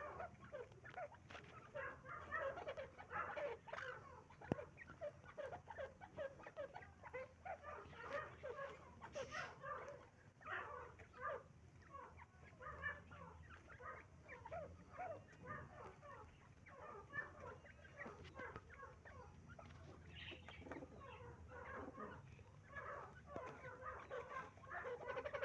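Several partridges (teetar) calling together: many short, overlapping calls in a continuous chatter.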